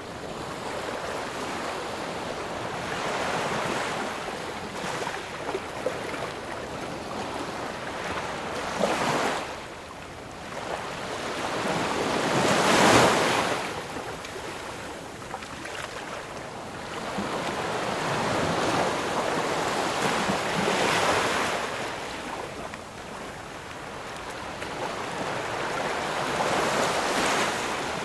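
Ocean surf: waves breaking one after another, each a swell of rushing noise that builds and falls away over a few seconds. The biggest wave comes about halfway through.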